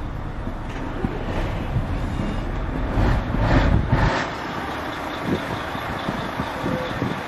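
Truck engine running, with a louder rushing swell about three seconds in that cuts off suddenly a second later.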